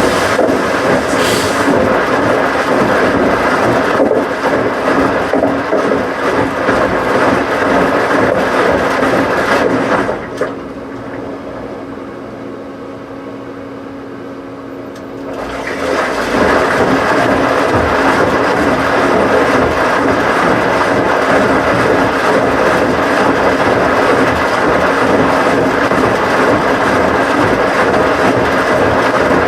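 Washing machine running loudly. About ten seconds in it drops to a quieter steady hum for about five seconds, then builds back up to full noise.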